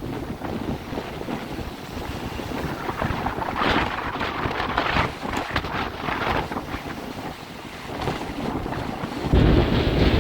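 Tropical-storm wind gusting and buffeting the microphone, with surf rushing behind it; the wind rises and falls, and a heavy gust hits about nine seconds in, adding a deep rumble.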